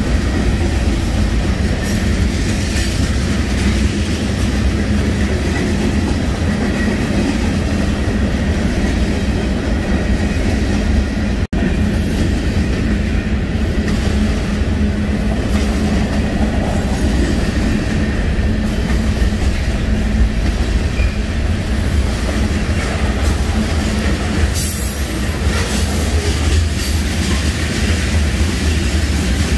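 Freight train of covered hopper cars rolling past close by: a steady heavy rumble and clatter of steel wheels over the rails, with a faint high wheel squeal. The sound drops out for an instant about a third of the way through.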